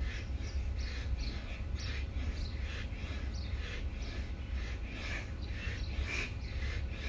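Birds chirping and calling repeatedly over a steady low rumble.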